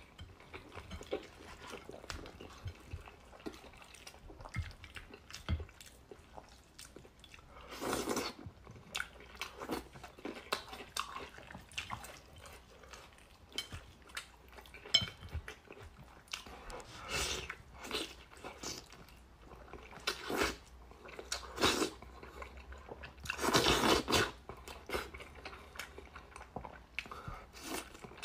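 Close eating sounds of a person stripping meat off a braised sheep's head: wet chewing, biting and crunching in many small clicks, with several louder bursts of about a second each.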